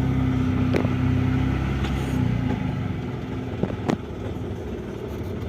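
Mahindra Supro diesel engine running steadily with a few sharp knocks, the intermittent in-gear knock that the mechanic attributes mostly to a fault in the injector pressure system. A little after two seconds in, the engine note drops and changes.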